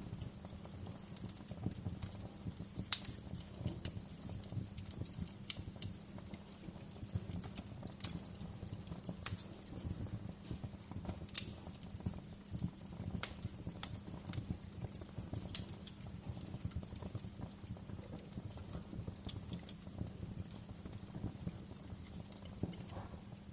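Wood fire crackling: irregular sharp pops and snaps over a steady low rumble, with one louder pop about three seconds in.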